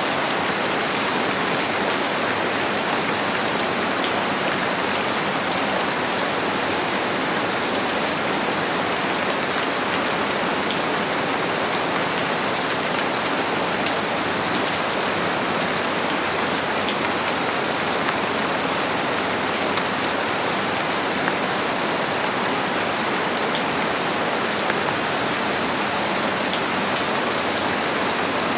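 Steady heavy rain falling, a dense even hiss with many small drop ticks, no thunder.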